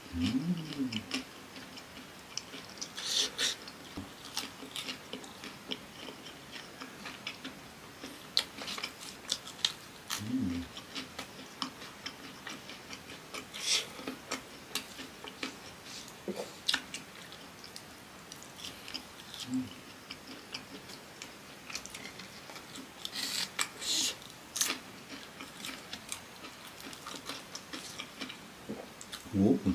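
Close-miked chewing of fried cassava: scattered soft crunches and wet mouth clicks throughout, with a few brief closed-mouth hums.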